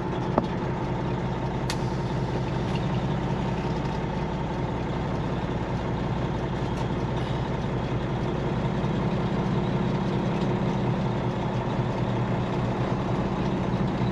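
Semi-truck diesel engine running steadily at low revs, with one short click about half a second in.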